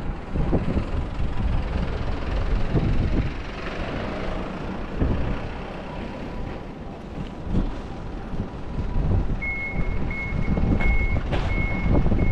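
Wind buffeting the microphone over low street rumble. From about three-quarters of the way in, a vehicle's reversing alarm beeps steadily on one high tone.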